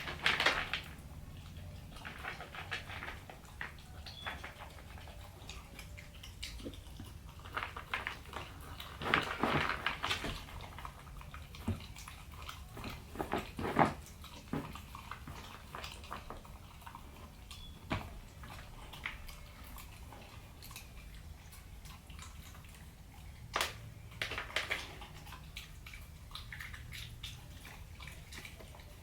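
A pit bull puppy eating raw meat from a bowl: irregular bouts of wet chewing and crunching with short pauses between them.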